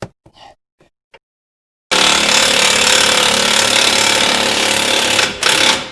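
Impact wrench hammering a nut down in one run of about three and a half seconds, followed by a short second burst near the end, after a few light clicks.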